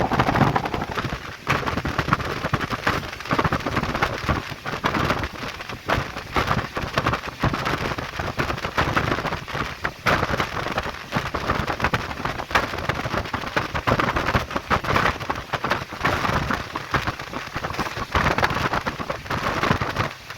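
Express train running at high speed: a dense, rough rushing noise of wheels on rails and air, broken by frequent irregular knocks and clatter.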